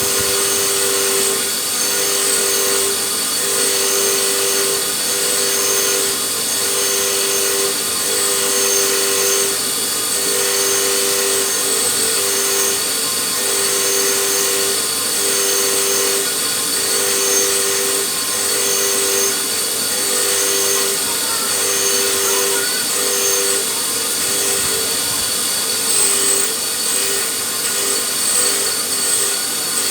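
A power tool running steadily and loudly, its pitch holding, with a tone that drops out and returns about once a second as the tool is worked.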